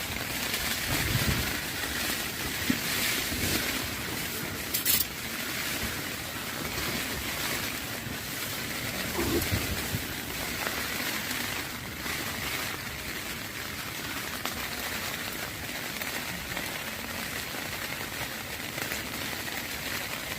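Heavy rain falling steadily, with a brief louder burst about five seconds in.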